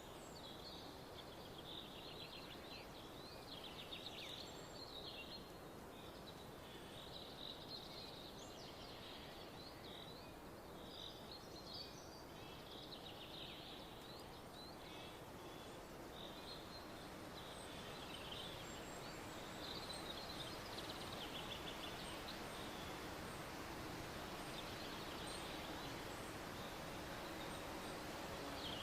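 Small birds chirping and trilling again and again over a faint, steady outdoor hiss.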